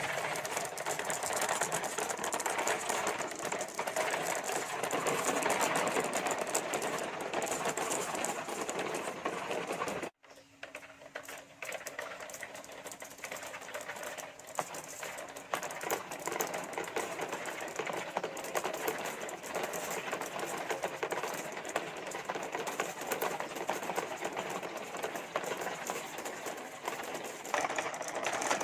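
Many marbles rolling and clattering down plastic marble-run tracks in a continuous dense rattle of clicks. The sound cuts out abruptly about ten seconds in, then comes back softer and builds up again.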